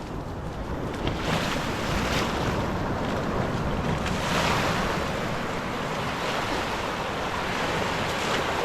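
Sea waves washing in and breaking, in swells, with wind buffeting the microphone.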